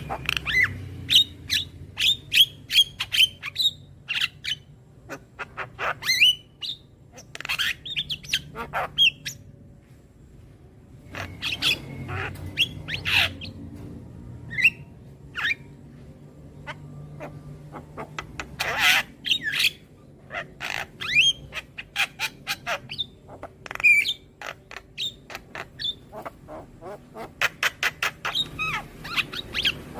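Javan myna (jalak kebo) calling: rapid runs of short harsh squawks and clicking notes mixed with brief whistled notes, broken by a couple of short lulls.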